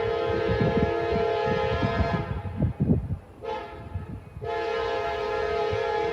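Diesel locomotive's air horn sounding a chord: a long blast that stops about two seconds in, a short blast about three and a half seconds in, then another long blast, in the blow pattern of a grade-crossing warning. Under it, the train's low rumble with heavy thumps.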